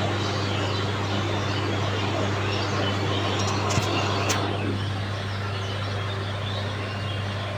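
Passenger train running: a steady rushing noise over a steady low hum, with two sharp clicks near the middle.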